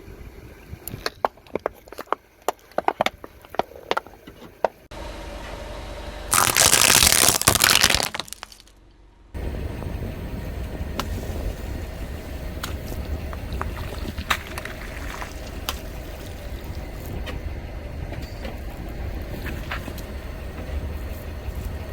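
Sharp crunches and cracks as a car tyre crushes brittle objects, then a loud, hiss-like noisy burst lasting about two seconds. From about halfway in, a car engine runs with a steady low rumble, with scattered small cracks over it.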